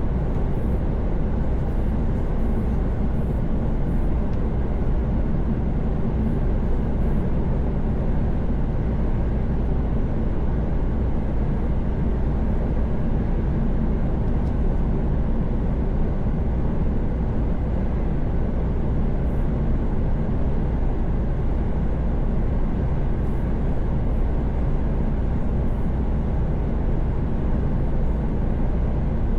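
Steady low engine drone and road rumble inside a Mercedes-Benz Actros truck cab cruising on a motorway, holding an even level throughout.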